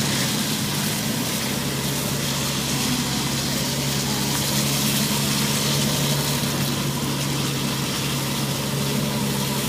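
A push car's engine idling steadily at an even pitch, over a steady hiss.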